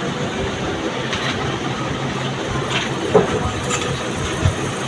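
Freshly rewired ceiling fan motor running on its test after being switched on: a steady hum and whir, with two sharp knocks about three and four and a half seconds in.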